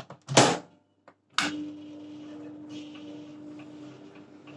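Microwave oven being started: a few sharp clicks, then a click about a second and a half in as it switches on, followed by its steady hum as it runs.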